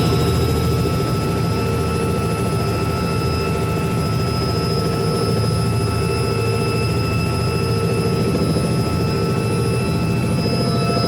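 Helicopter turbine engine and rotor running steadily: a constant high whine over a loud low drone.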